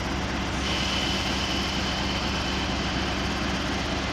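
Heavy diesel locomotive engine, a Class 56, running steadily with a deep hum. A thin, high, steady whine comes in about half a second in and fades out near the end.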